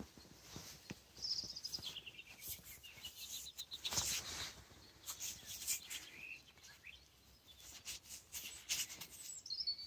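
Birds singing outdoors in short chirping phrases, with scattered soft clicks and rustles close by.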